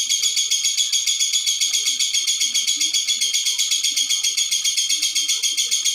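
Lovebird singing a long, unbroken, rapid chattering trill of about eight notes a second, the continuous 'ngekek' song that Indonesian lovebird keepers show off.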